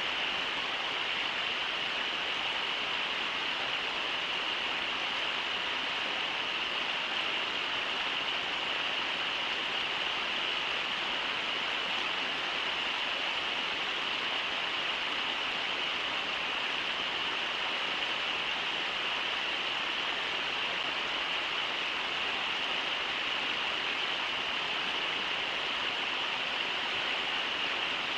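Brooks River rushing steadily over shallow riffles: an even, unbroken rush of water.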